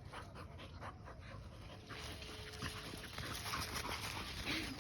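A dog panting, a quick run of short breaths.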